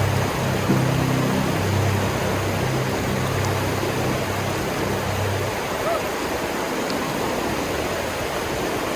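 Rushing mountain stream water, a steady full hiss. Low held notes sound under it until about five and a half seconds in, then stop.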